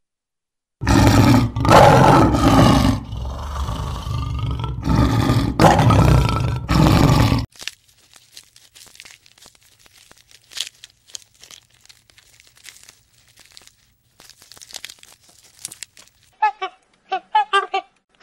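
An animal roaring loudly and roughly in several long calls for about seven seconds, then faint crunching, and near the end a run of short, high, quick calls in groups.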